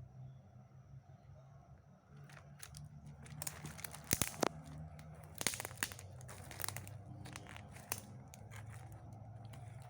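Irregular crunching and crackling clicks, starting about two seconds in and densest in the middle, over a low steady hum.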